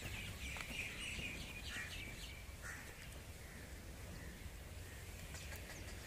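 Faint birds chirping, with a short run of quick high calls in the first half, over low steady outdoor background noise.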